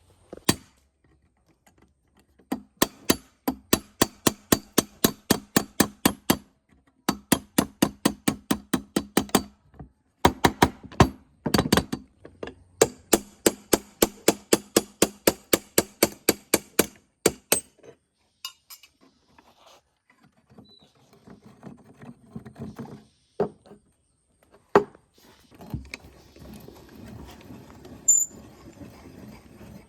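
Rapid, even metal-on-metal strikes, about three or four a second, in runs of several seconds with short pauses. The strikes stop a little past the middle, leaving a few scattered knocks and faint scraping and handling noise.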